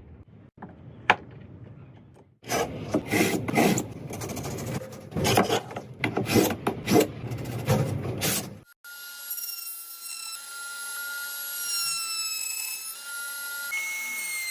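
Wood being worked by hand in quick scraping strokes, like rasping or sawing, after a few sharp clicks. Just past halfway the strokes stop and a steady machine whine of several tones takes over, its pitch shifting in small steps.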